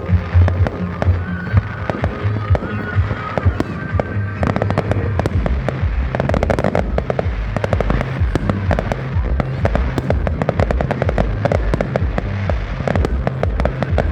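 Fireworks exploding in quick succession, sharp bangs thickening into dense crackling about four seconds in, with music playing underneath.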